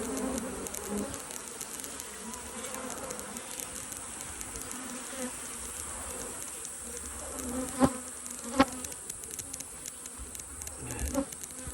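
Carniolan honey bees buzzing steadily in their queen cages as the shipment is unboxed. Two sharp clicks a little after the middle and a few knocks near the end come from the cages being handled.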